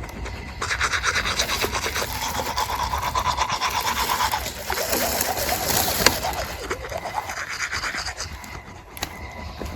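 Rapid back-and-forth brushing or scrubbing strokes, starting about half a second in and fading out near the end, with one sharp click around six seconds in.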